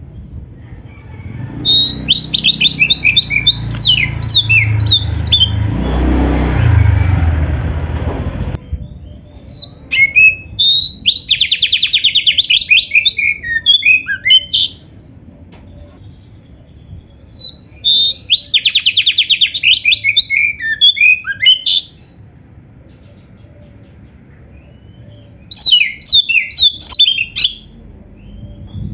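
Oriental magpie-robin (kacer) singing loudly in four bouts of rapid trilled notes and quick whistled sweeps, with short pauses between bouts. A low rumble of background noise runs under the first bout and cuts off suddenly about eight seconds in.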